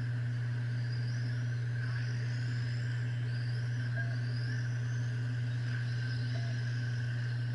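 Electric R/C race trucks whining as they speed up around the track, several short rising whines in quick succession, over a loud steady low hum.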